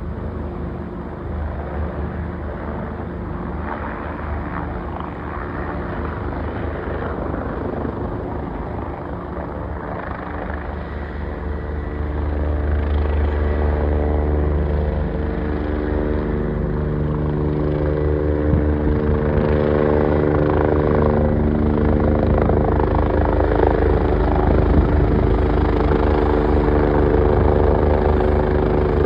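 Airbus EC145 twin-turbine helicopter running, its rotor thrum and turbine whine steady, growing louder about twelve seconds in.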